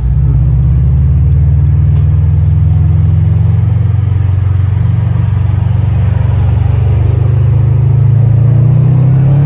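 Turbocharged 2.5-litre flat-four of a 2018 Subaru WRX STI running through a newly fitted Invidia R400 cat-back exhaust. It is a loud, steady, deep drone that climbs slightly in pitch near the end.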